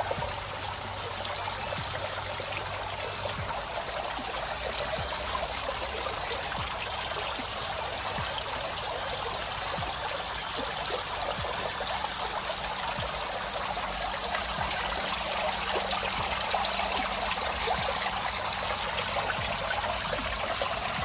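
Steady running water, trickling without a break.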